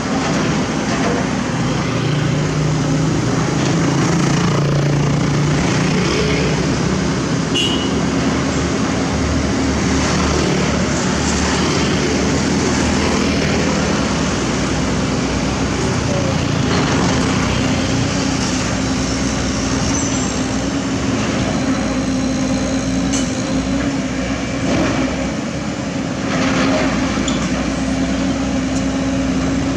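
Heavy diesel engine of a working excavator running continuously, its engine note holding steady and settling higher in the second half, with road traffic noise around it.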